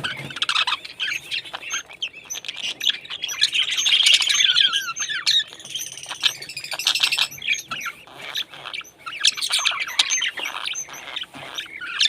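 Parrots calling continuously, with chirps and harsh squawks overlapping; the calls are loudest about four seconds in.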